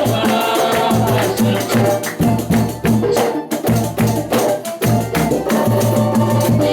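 Live samba band playing: a steady rhythm of tambourine-like hand percussion and shakers over bass notes.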